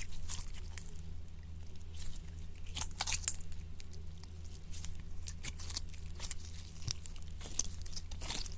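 Slime being squeezed and poked by hand, giving irregular crisp crunches and crackles in quick clusters.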